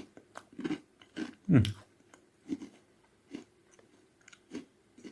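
Filled ragi (finger millet) cereal bites being chewed: irregular dry crunches, with a short falling hum about one and a half seconds in.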